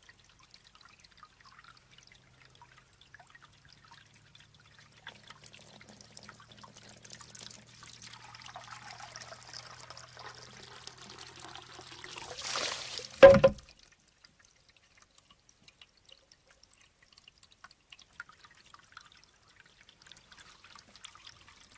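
Water trickling into a bamboo shishi-odoshi, swelling to a pour as the tube fills and tips, then one loud, sharp knock of the bamboo striking its stone about thirteen seconds in; quieter trickling follows.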